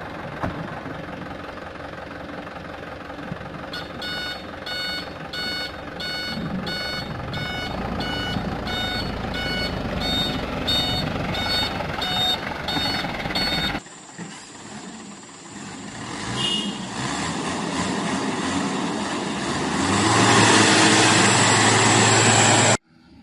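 Mitsubishi Canter truck's engine running while its reversing alarm beeps steadily, about one and a half beeps a second for some ten seconds. Then the engine revs up and runs hard and loud before cutting off suddenly near the end.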